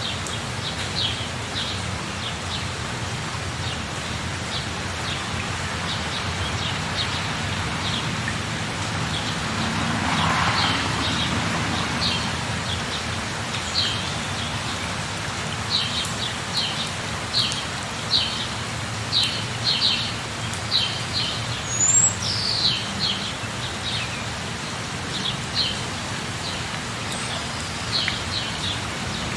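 Steady rain, with short high bird chirps coming again and again through it, more often in the second half, and one falling call about two-thirds of the way in.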